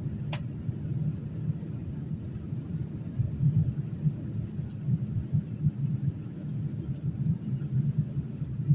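Steady, uneven low rumble of a vehicle in motion, with a faint click about half a second in.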